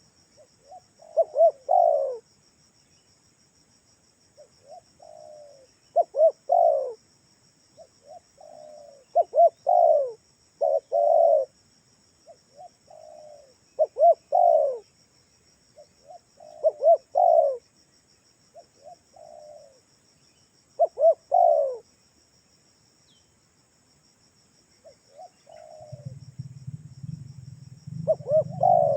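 Spotted dove cooing: short phrases of several notes, repeated about a dozen times a couple of seconds apart, over a steady high insect trill. A low hum comes in near the end.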